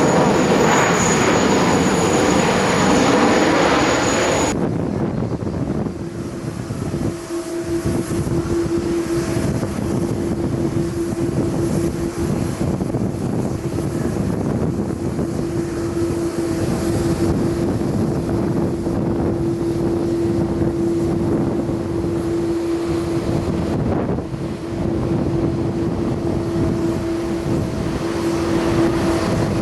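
Jet airliner engines running loud. About four and a half seconds in, the sound changes abruptly to a steadier rumble with a constant low hum.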